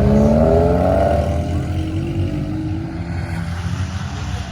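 A car engine accelerating, its pitch rising over the first second or so, then running on steadier and a little quieter.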